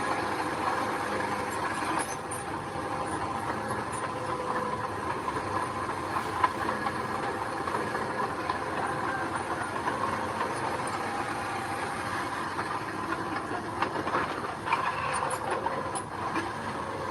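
Heavy construction machine's engine running steadily, with a few sharp clanks about two seconds before the end.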